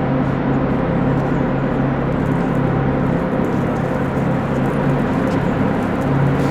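Aircraft engines running steadily, a loud even rumble with a low hum.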